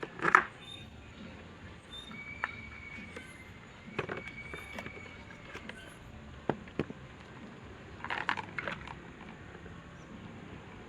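Scattered clicks, taps and short scrapes of small parts being handled during electric fan repair work, the loudest just after the start and more around the middle and near the end. A faint thin tone sounds for a few seconds in the first half.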